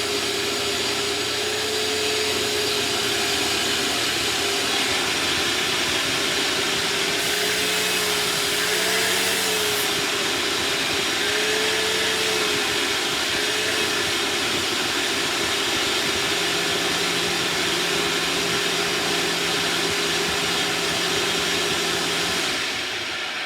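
Bagless vacuum cleaner running steadily, a motor hum with a dense rush of airflow whose pitch wavers slightly as it is pushed over the floor. The sound falls away near the end.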